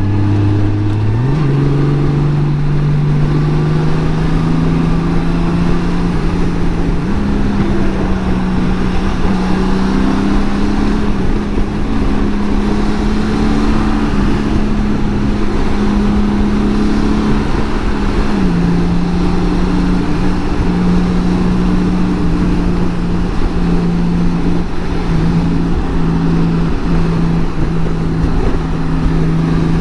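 A 2018 Honda Gold Wing's flat-six engine running at highway speed. Its note steps up in pitch about a second in and again around seven seconds, then drops slightly around eighteen seconds, over a steady rush of wind and road noise.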